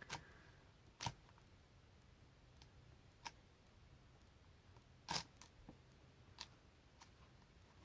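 Quiet room tone broken by about five short, sharp clicks and taps of small objects being handled on a tabletop during plasticine modelling, the loudest about five seconds in.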